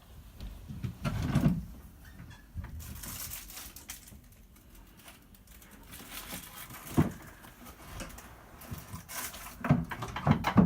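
Freezing rain ticking and pattering on icy surfaces, broken by several heavier thumps and crunches, loudest about a second in and near the end.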